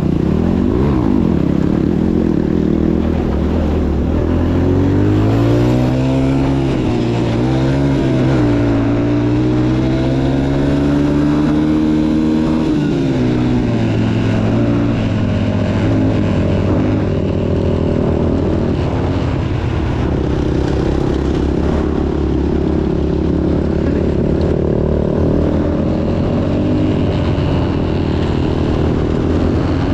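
Motocross dirt bike engine running while being ridden, its pitch climbing and dropping repeatedly as the throttle is worked, then holding steadier in the second half.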